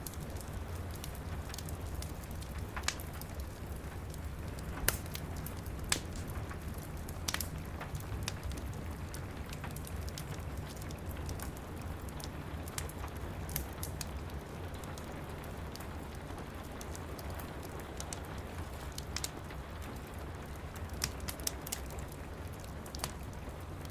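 Wood fire crackling in a fireplace, with sharp irregular pops, over steady rain and a low rumble.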